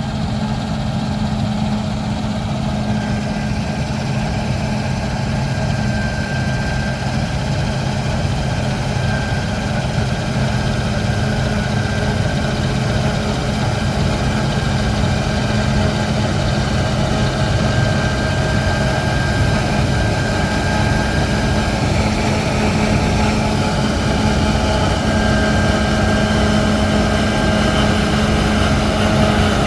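Large diesel harvest machinery running steadily in a wheat field: a deep engine drone with a steady whine on top, growing gradually louder.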